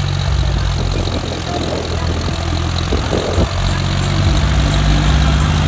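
Tractor diesel engine running steadily with a low drone.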